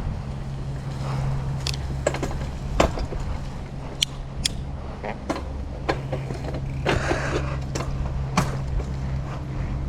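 A bike ridden over bumpy dirt, giving a steady low rumble with scattered sharp rattles and knocks as it hits bumps.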